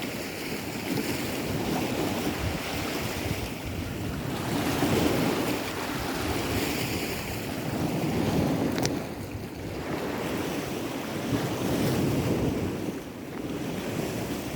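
Wind gusting on the microphone over the wash of sea surf, the noise swelling and easing every couple of seconds.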